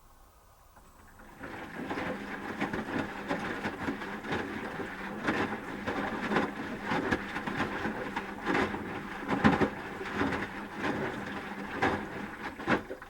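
Asko Quattro W6098X washing machine drum tumbling the wet load during the heating phase of a 30 °C wash, with the laundry sloshing and knocking irregularly. The drum starts turning about a second and a half in and stops abruptly just before the end.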